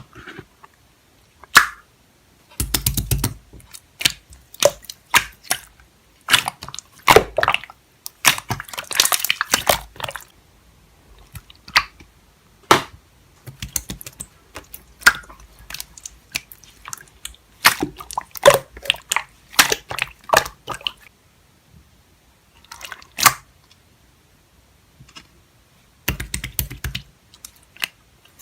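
Slime being squeezed and pressed by hand: irregular squishy clicks and pops coming in clusters, with short pauses between.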